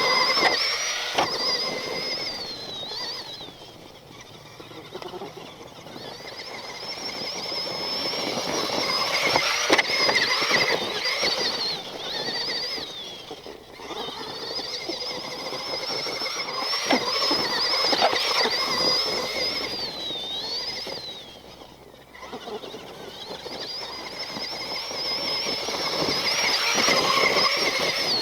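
Axial SMT10 Grave Digger RC monster truck's electric motor and metal-gear drivetrain whining at a high pitch, swelling and fading about four times as the throttle is worked, the pitch dropping as the truck slows. Scattered sharp knocks sound throughout.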